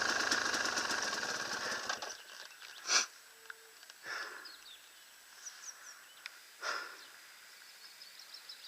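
Enduro motorcycle engine running and fading away over the first two seconds, then cutting off. This is followed by quiet outdoor ambience with a few brief swishes and faint high chirps.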